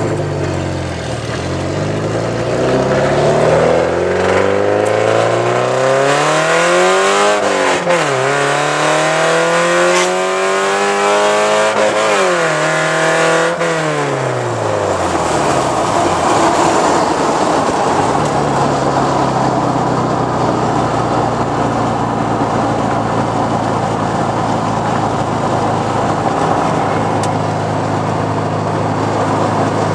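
Straight-piped 2.5-litre inline-four of a 1983 Porsche 944, with no catalytic converter and no muffler. The revs climb, dip sharply twice as the gears change, then fall away and settle into a steady drone.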